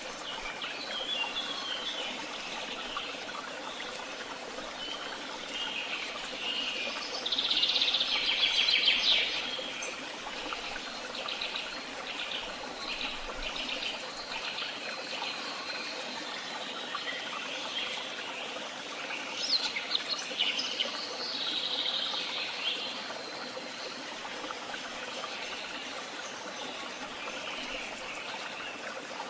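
Woodland songbirds singing, with chirps and rapid trilled phrases throughout; the loudest song comes about a quarter of the way in and again about two-thirds of the way in, over a steady background hiss.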